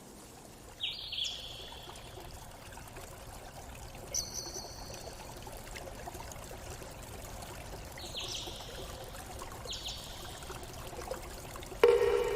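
Forest birds calling over a steady rush of running water: four short high calls a few seconds apart, then a sudden louder, lower-pitched sound near the end.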